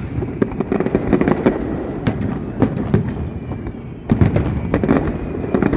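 Fireworks display: a dense, unbroken run of bangs and crackling, with a fresh volley of loud bursts about four seconds in.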